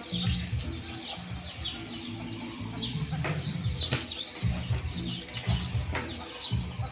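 Many small birds chirping in quick, overlapping short calls, over background music with a low, pulsing bass line.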